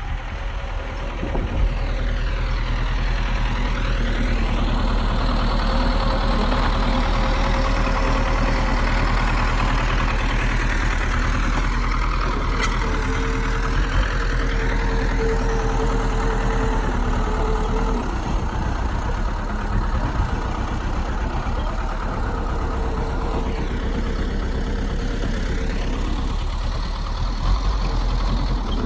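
Heavy earthmoving machine's diesel engine running steadily at working speed, with slow swells in pitch and level.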